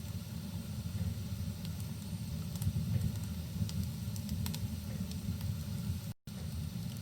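Fireplace fire crackling, with scattered sharp pops over a steady low rumble and a faint rain hiss. The sound cuts out for a split second about six seconds in.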